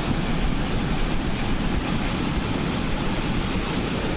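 River in flood rushing past: a steady, loud wash of fast-moving water with no break.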